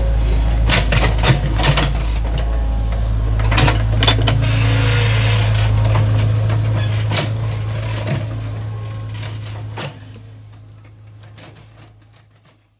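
Heavy earthmoving machinery running with a steady low engine drone, with scattered clanks and knocks. It fades away over the last few seconds.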